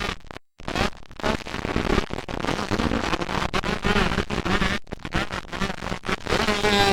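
Several motocross dirt bike engines buzzing and revving at once, their pitch rising and falling. The sound drops out briefly about half a second in.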